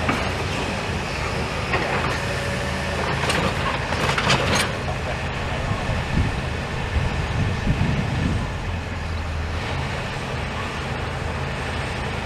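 Demolition machine's engine running steadily on site, with clattering crashes of debris about two seconds in and again for a couple of seconds shortly after.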